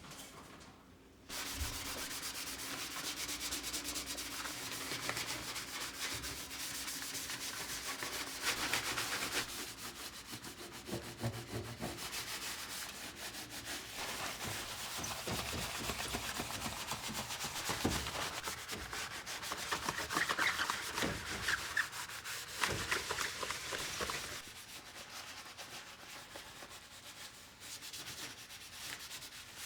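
Steady scrubbing of a hard surface during cleaning. It starts about a second in, a few light knocks come through mid-way, and it eases off near the end.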